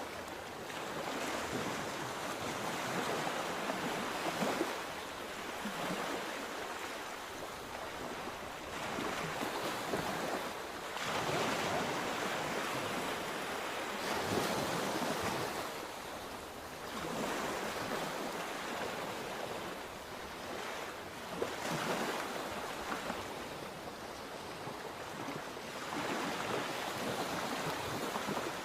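Sea waves breaking and washing up the shore in an unbroken rush that swells and eases every few seconds, with wind buffeting the microphone.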